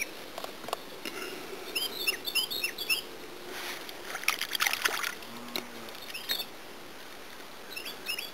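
A songbird singing in quick runs of high, curved chirps, several notes at a time, repeated three times. About four seconds in comes a brief splash of water.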